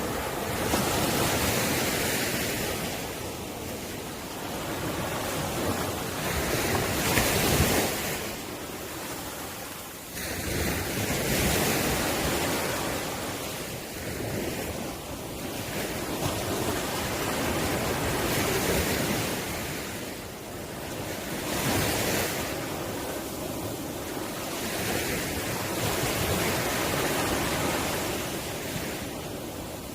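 Ocean waves breaking, the surf swelling and fading again every few seconds.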